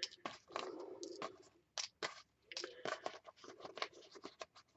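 Small buttons being handled and sorted: faint, irregular clicking and ticking as they knock together, with light scraping between the clicks.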